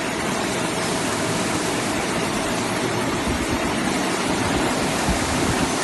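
Fruit and vegetable washing machine running: a steady rush of spraying, churning water, with a faint steady tone under it.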